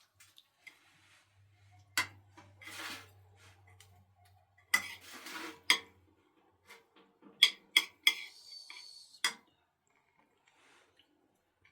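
A series of sharp clicks and knocks from hard objects being handled, with short scraping noises between them; the loudest knocks come about five and seven and a half seconds in.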